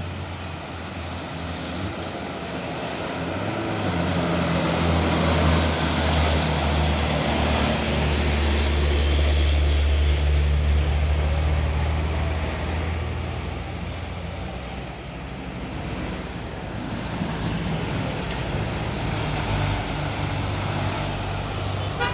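Heavy diesel truck engine pulling under load, growing louder over several seconds as it comes close and then easing off.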